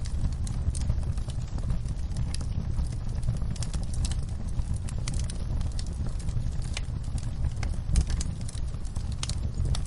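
Wood fire crackling in a fireplace: irregular sharp pops and snaps over a steady low rumble, mixed with a soft patter of rain on a window.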